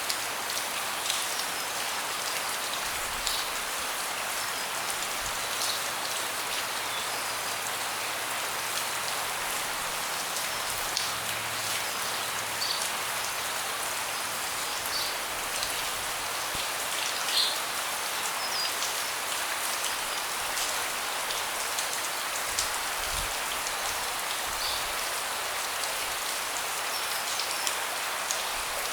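Steady rain falling on a deck, a dense even patter with scattered louder individual drips.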